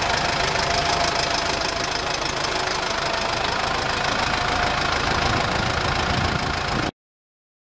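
Ford 6640 tractor's diesel engine running steadily, cutting off abruptly near the end.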